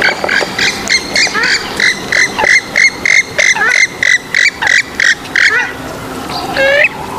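Rail-family waterbird calling: a fast, even run of short, sharp repeated notes, about three a second, for some five seconds. After a short pause comes a single wavering call near the end.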